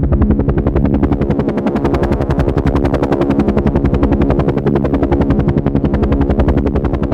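Helicopter rotor blades beating in a fast, steady rhythm over a steady engine whine, loud and unbroken.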